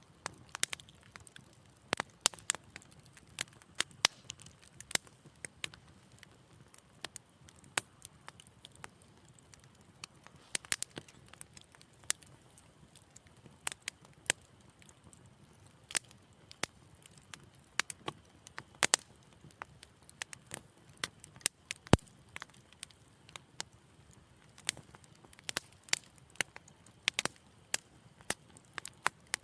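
Wood fire in a fireplace crackling, with irregular sharp pops and snaps over a faint low rumble of the flames; one pop about two-thirds of the way through is louder than the rest.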